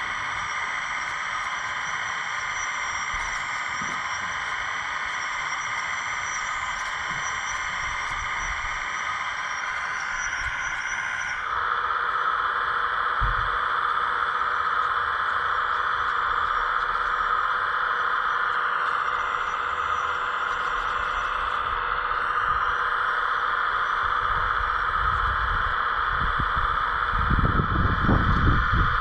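Radio-controlled scale hydraulic excavator whining steadily from its hydraulic pump and electric motors, getting louder and higher about eleven seconds in as the machine takes on load. Near the end, low knocks and rattling from the model working.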